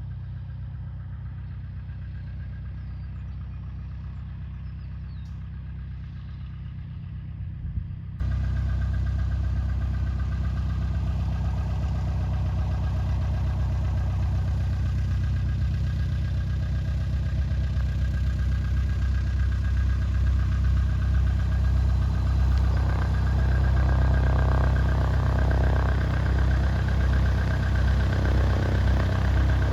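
Light aircraft's piston engine running steadily at low power, a low even hum heard in the cockpit. About eight seconds in it cuts to a louder, fuller take of the engine, which grows a little louder near the end.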